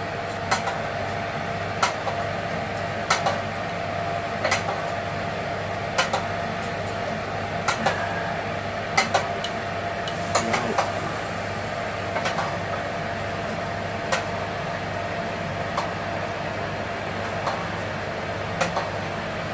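Steady hum of a kitchen oven running while a chicken roasts inside, with sharp irregular clicks and ticks about every second or so.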